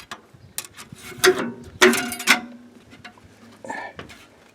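Metal clicks, clanks and scrapes of hands working on machine parts, with a few louder scraping clanks about one and two seconds in.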